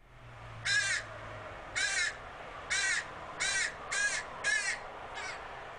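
Crows cawing: seven short caws in a loose series, the last one fainter.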